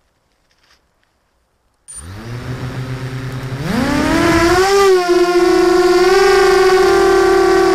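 Brushless motors and propellers of a QAV250 FPV racing quadcopter spinning up: they start suddenly about two seconds in with a low idle hum, then rise sharply in pitch at throttle-up a couple of seconds later and hold a steady high whine.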